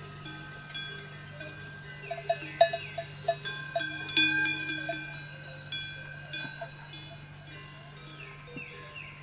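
Metallic bells clanking irregularly over a steady low hum, with a quick run of short pips about two to three seconds in.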